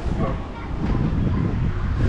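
Wind buffeting the microphone, a loud, uneven low rumble that grows stronger about half a second in.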